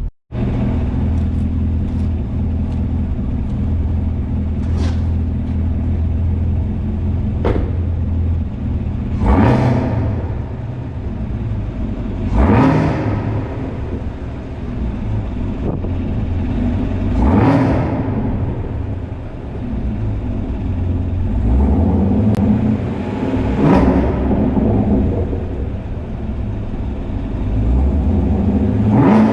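Chevrolet Camaro ZL1's supercharged 6.2-litre V8 exhaust running with a deep, steady rumble, broken by several sharp throttle blips that rise and fall in pitch. It echoes off the concrete of a parking garage.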